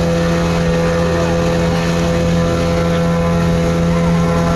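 Motorboat engine running steadily under way, a constant drone with a steady hum, over the rush of water and wind.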